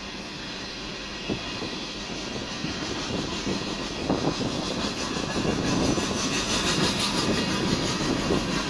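A train running past at a grade crossing: a rumble with rail clatter that grows louder through the second half.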